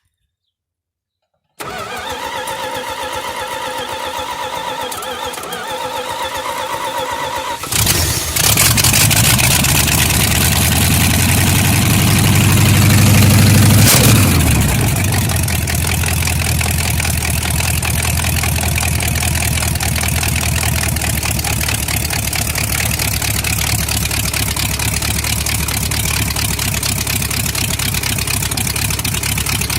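A cold engine is a hard start: its starter cranks it for about six seconds before it catches. It then runs loud, rises in speed to a peak a few seconds later and drops back to a steady idle.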